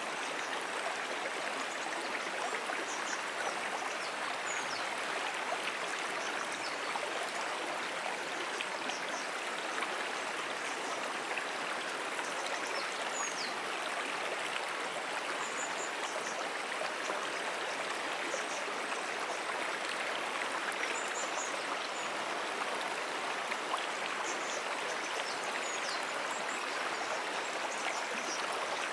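A brook flowing steadily, an even rushing and babbling of water. Faint, short, high chirps come and go over it.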